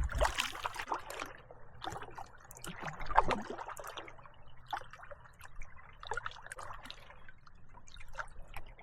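Small lake waves lapping and splashing at the water's edge in an irregular run of little sloshes, with one louder slosh about three seconds in.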